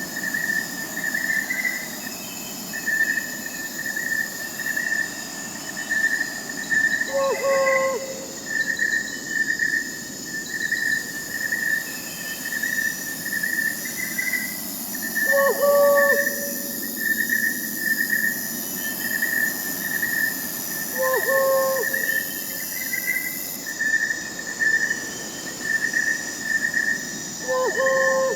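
Night-forest ambience: crickets chirping in a steady pulsing trill, with fainter high insect tones above. An owl hoots four times, short calls about every six to seven seconds.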